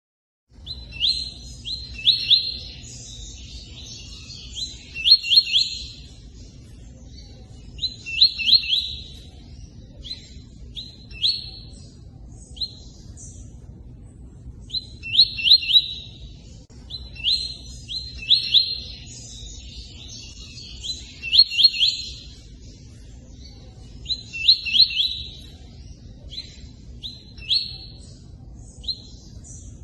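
Tui-tui bird song in short phrases of sharp, quick chirps, repeated every few seconds with brief pauses between. A steady sound of running water lies underneath. The sound begins about half a second in.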